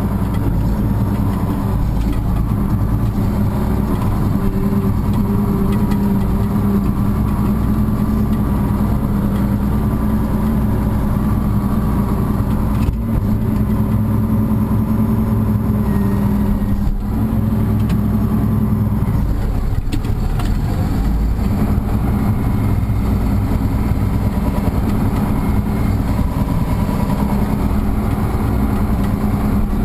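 Farm tractor engine running steadily while the tractor scrapes frozen cow pies, with the engine note dipping briefly about twenty seconds in.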